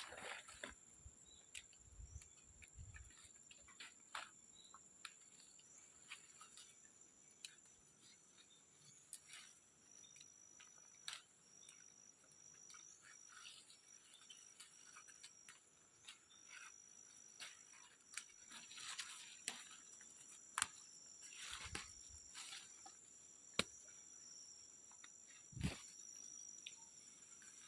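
A faint, steady, high-pitched insect chorus, with scattered clicks and brief rustles over it.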